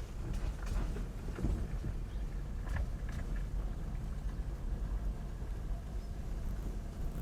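Car driving along a waterlogged road: a steady low rumble of tyres and engine, with scattered small knocks and splashes.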